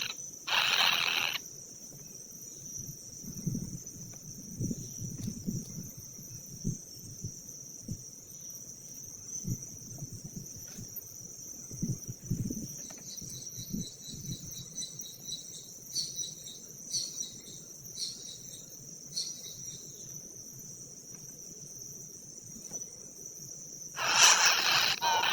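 Insects droning steadily on one high note, with scattered soft low thumps and a short run of high ticking chirps in the middle; the drone swells louder at the very start and again near the end.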